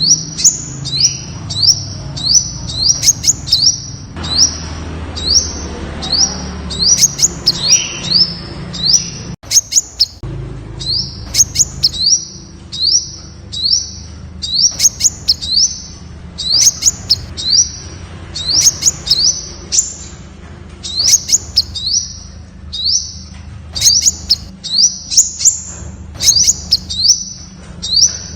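Temminck's sunbird calling: a continuous run of short, high notes, each sliding upward, given in quick clusters of two or three and mixed with sharp ticking clicks. There is a brief break about nine seconds in.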